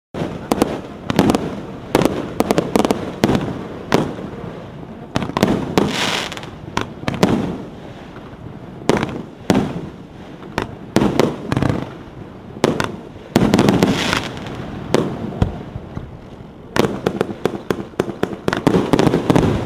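Consumer firework battery ('Constellation Boötes' cake) firing a long, irregular string of sharp shots and bursts, some in quick clusters, starting abruptly.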